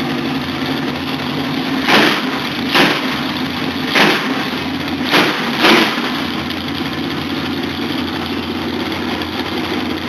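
Car engines idling and running in street traffic, a steady hum with five short, loud bursts between about two and six seconds in.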